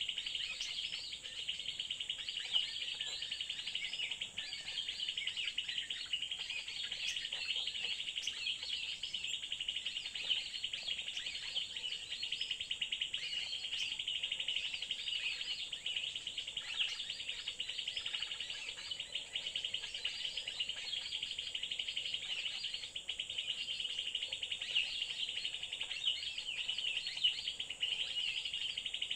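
Dense, continuous bird chirping and calling, many short notes overlapping, over a steady high-pitched insect drone.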